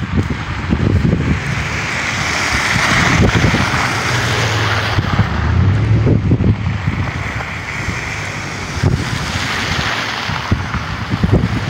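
Gusty wind buffeting the microphone, with a rumbling roar that swells around three seconds in and again later before easing.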